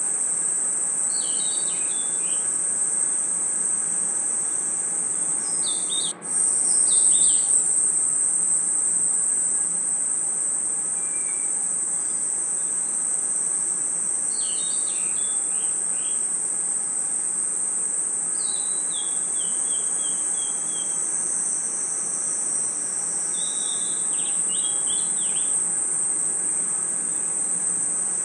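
Crickets and other insects in a continuous high-pitched trill, with short bursts of bird chirping breaking in every few seconds. The sound drops out for an instant about six seconds in, then resumes.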